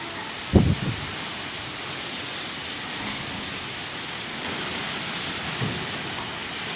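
Heavy rain falling steadily, with a sharp low thump about half a second in and a softer one near the end.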